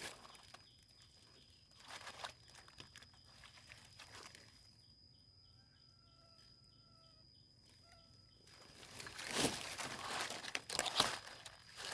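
Crunching and crackling of leaf litter and soil as termite mushrooms are picked by hand, in a few short bouts that are loudest near the end. In a quiet stretch in the middle there are a few faint chirps.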